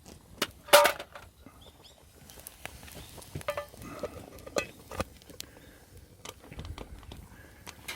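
Irregular sharp knocks and clinks, the loudest a clack about a second in, like metal cookware being handled.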